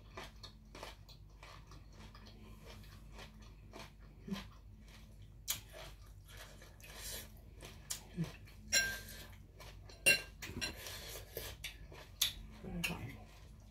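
Chewing a mouthful of blanched squid, with small mouth clicks. In the second half a metal spoon clinks against a ceramic bowl a few times; two of the hits ring briefly.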